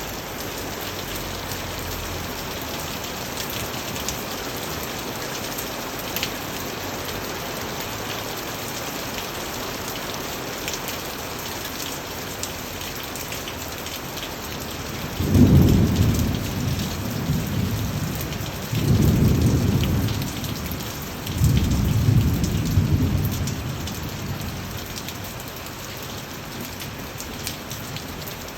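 Steady rain falling, with scattered drops ticking on surfaces. About halfway through, thunder rumbles in three loud low rolls a few seconds apart, then fades back under the rain.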